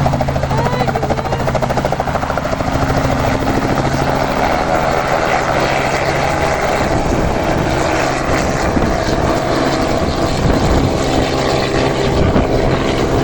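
Helicopter rotor blades chopping fast and steadily over the drone of the engine, loud throughout.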